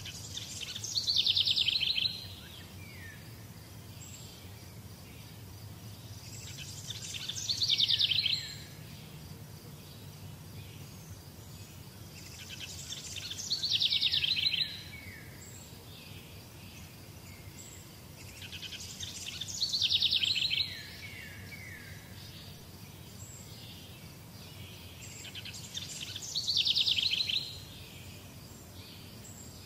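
A bird repeating a loud, fast trilled phrase about every six seconds, five times, each phrase ending in a few short falling notes, over a low steady background rumble.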